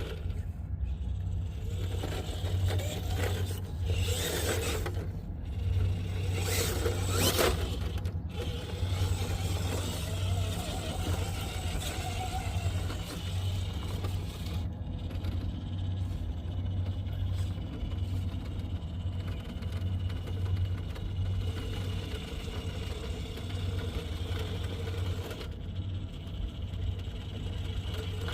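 Radio-controlled rock crawler climbing over rock: its small electric motor and gears whine, and its tyres and chassis scrape on the stone, over a steady low rumble.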